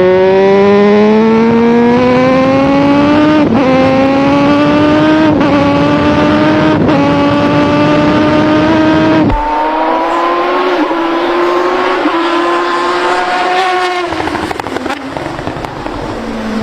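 Crighton CR700W's twin-rotor rotary engine accelerating hard through the gears: the pitch climbs steadily and dips briefly at each upshift. About nine seconds in the sound changes abruptly and goes thinner, then keeps climbing through more shifts.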